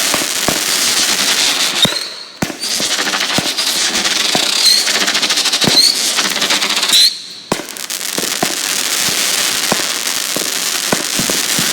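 Consumer fireworks going off: a dense, continuous crackle with many sharp bangs and several short whistles. There are two brief lulls, about two seconds in and again after seven seconds.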